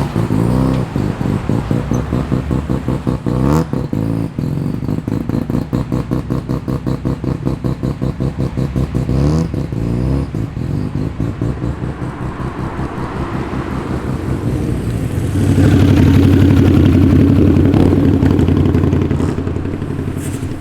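Performance car engines rumbling as cars roll in slowly, with an uneven, pulsing idle for the first half. About fifteen seconds in, a louder engine note swells and holds for a few seconds before easing off.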